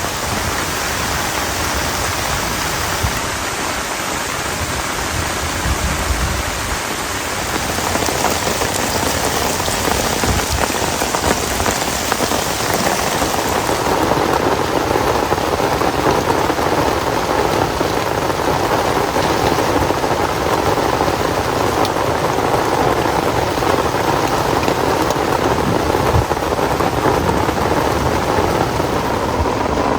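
Heavy rain falling steadily, a dense even hiss of drops, growing a little louder about eight seconds in.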